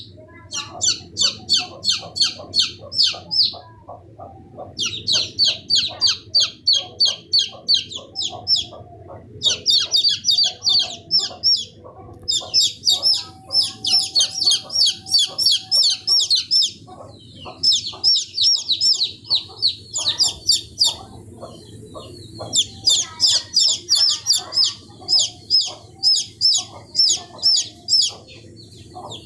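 Young domestic chicks peeping: rapid, high-pitched cheeps that drop in pitch, about four or five a second, in runs broken by short pauses.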